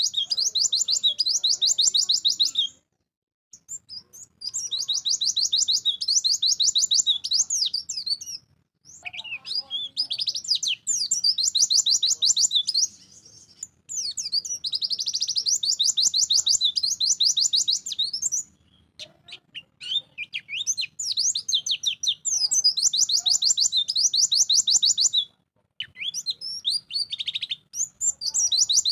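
A pleci (white-eye) singing in full, energetic song: fast, high-pitched twittering trills. The song comes in about six bouts of three to four seconds each, separated by short pauses.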